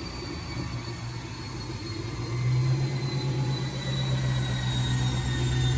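Turbocharged 5.2 L Magnum V8 engine running at a steady speed, getting louder about two seconds in, with a faint high whine that slowly drops in pitch.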